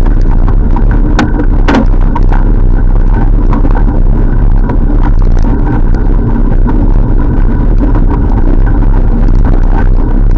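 Loud, steady wind rumble and road noise from riding a bike, with a steady hum over it.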